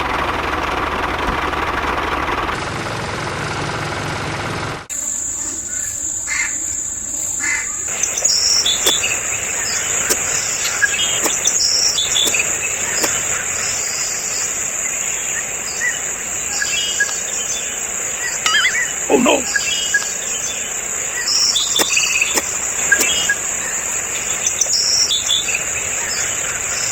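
A steady hiss stops abruptly about five seconds in. Then comes rural ambience: crickets trilling steadily at a high pitch, with birds chirping here and there over it.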